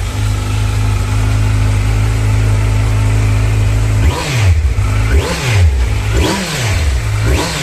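Kawasaki Z900 inline-four engine idling steadily just after starting, then revved in four quick throttle blips during the second half.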